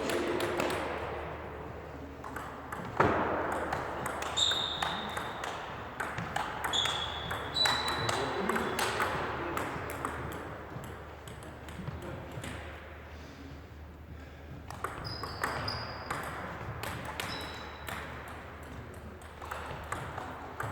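Table tennis rallies: the celluloid-style plastic ball clicking sharply off bats and table again and again, some hits ringing with a short high ping.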